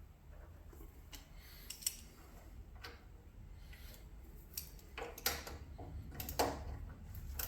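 Scattered light clicks and knocks of hand tools and metal parts being handled, a few louder knocks in the second half, over a low steady hum.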